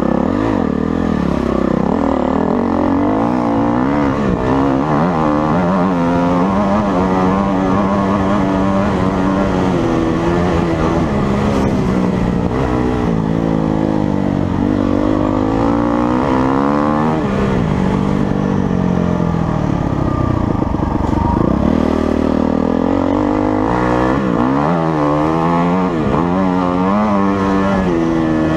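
Motocross dirt bike engine revving hard, its pitch climbing and dropping again and again as it accelerates and backs off.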